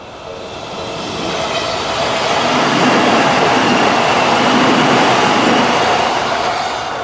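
An Odakyu Odawara Line train passes over a level crossing. Its noise swells to a peak in the middle and fades near the end, while the crossing's electronic warning bell keeps ringing in a two-tone pulse about twice a second. The bell is drowned out while the train is loudest; the uploader takes it for the 'Hakone type' crossing tone.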